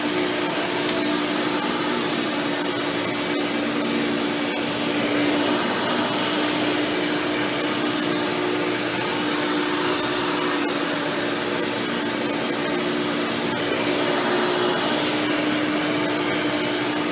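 Hoover Power Drive Supreme upright vacuum with an upgraded 20-blade impeller fan, running steadily: an even rush of air with a steady motor hum.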